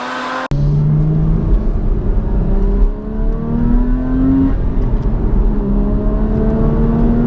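Porsche Cayman's naturally aspirated flat-six accelerating through the gears. The engine note climbs, drops back at an upshift and climbs again, over a steady low road rumble. The sound starts abruptly about half a second in.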